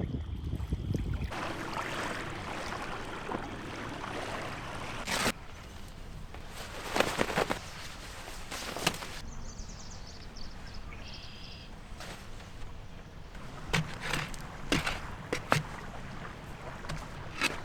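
Outdoor wind and water noise, with a handful of sharp knocks or clicks scattered through it.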